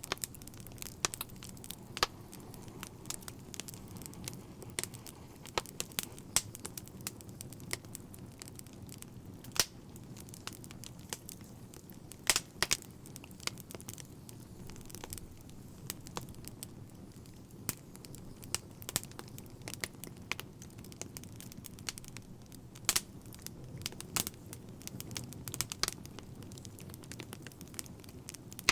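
Wood fire crackling: irregular sharp pops and snaps, a few louder ones around twelve seconds in, over a steady low rumble of the flames.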